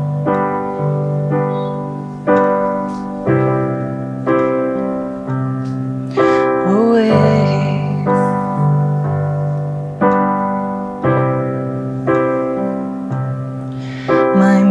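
Piano playing a slow accompaniment: chords struck about once a second and left to ring and fade. Near the middle a voice sings a single held word over it.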